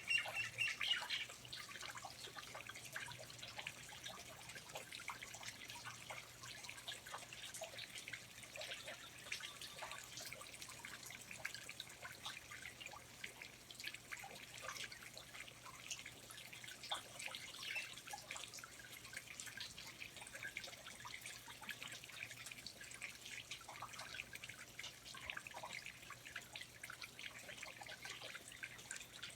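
Water dripping in a rainforest: many irregular, scattered drips, with a bird call fading out about a second in.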